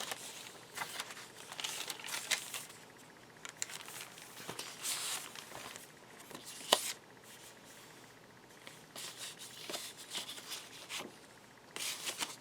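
Paper being handled: the pages, envelopes and cards of a handmade paper journal rustling and crinkling, with light ticks and one sharper tap about halfway through.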